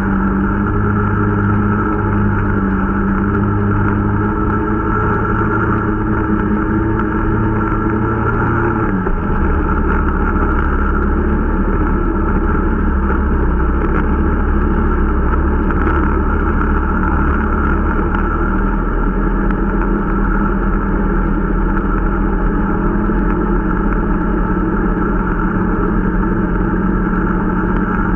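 Irbis Dingo T125 snowmobile's 125 cc single-cylinder four-stroke engine running under way during its break-in. The engine note drops about nine seconds in and picks up again around nineteen seconds.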